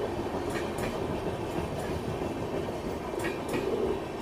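Passenger coaches of an express train rolling past, with a steady rumble and paired wheel clicks over the rail joints about half a second in and again near the end.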